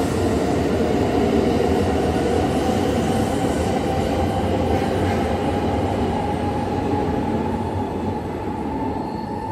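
Shinkansen bullet train pulling out past the platform, a steady rumble of wheels on rail with a high whine over it. The sound eases off near the end as the last car goes by.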